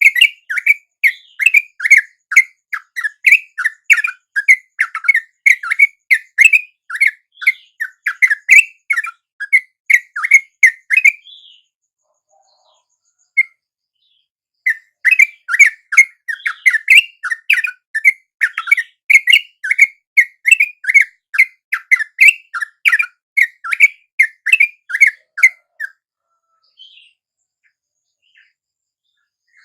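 Yellow-vented bulbul (trucukan) calls: fast, chattering chirps at about four notes a second, in two long bouts with a pause of a few seconds between them.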